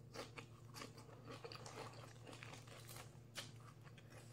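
Faint, irregular crunching of raw celery leaf being chewed with the mouth closed, picked up by a clip-on microphone.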